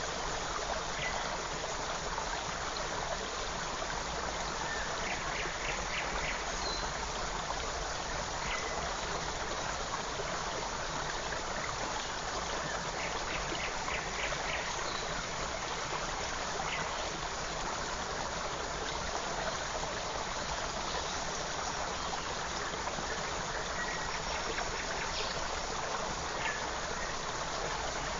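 Forest stream running steadily over stones, with a few short, faint bird chirps here and there.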